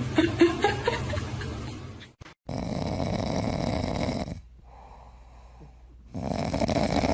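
Snoring in long, noisy breaths: one snore running from about two and a half seconds in and another starting near the end, with a quieter gap between. It is preceded by a brief stretch of small rising squeaky sounds at the start.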